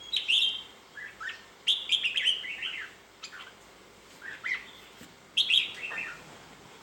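Red-whiskered bulbul singing: short, bright warbled phrases in several bursts, with pauses of about a second between them.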